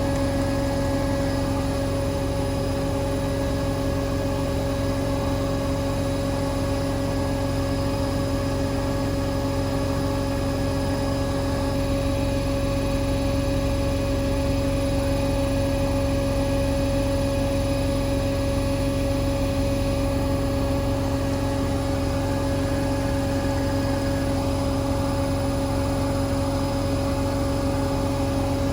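Hoover Link washing machine drum spinning at full speed, 1400 rpm, a steady drone whose pitch holds level throughout.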